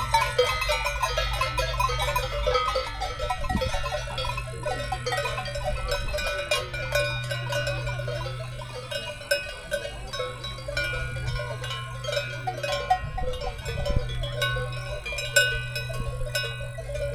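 Many cowbells clanking and ringing irregularly and continuously, as from a herd grazing on an alpine pasture.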